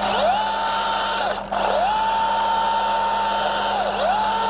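Battery-powered Milwaukee top-handle chainsaw whining at full speed through the last of a back cut. It is released and picked back up about a second and a half in and again near four seconds.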